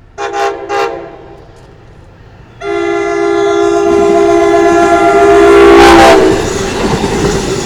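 Locomotive horn sounding a multi-note chord: two short blasts, then one long blast. After the horn cuts off, the train rumbles loudly past.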